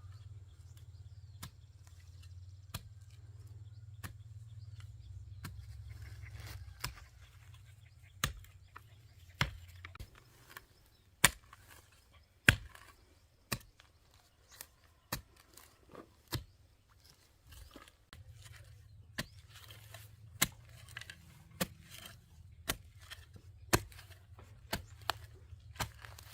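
Wood being chopped with a blade: a steady run of sharp strokes, roughly one a second, the loudest a little under halfway through.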